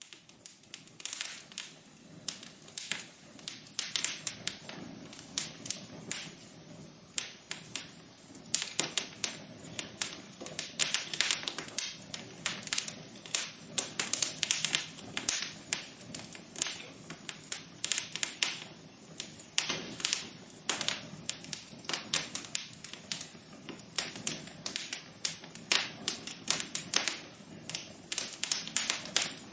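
Wood fire crackling in a fireplace: dense, irregular pops and snaps over a steady low hiss of the burning fire.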